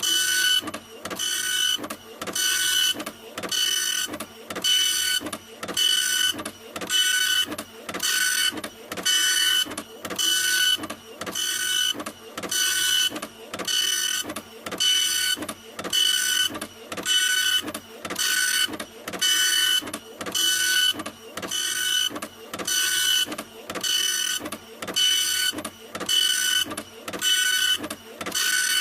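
Printer running continuously, a whirring stroke with a high whine repeating about once a second in an even, unbroken rhythm.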